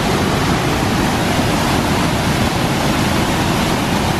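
Devil's Kettle waterfall on the Brule River, water pouring down the falls in a loud, steady rush.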